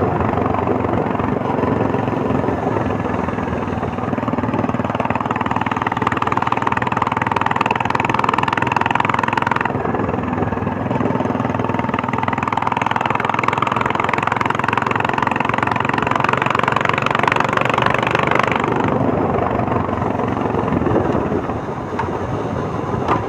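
Royal Enfield Meteor 350's single-cylinder engine running under way, its exhaust giving a steady helicopter-like thump. The throttle eases off about three-quarters of the way through.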